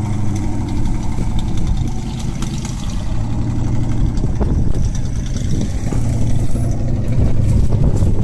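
GAZ-66 truck engine running, working in mud, with a steady low note. It eases a little about two seconds in and builds again toward the end.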